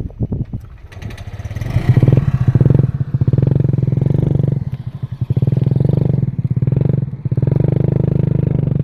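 Excavator's diesel engine running hard under load, with brief drops in level about five and seven seconds in. A few knocks are heard in the first second.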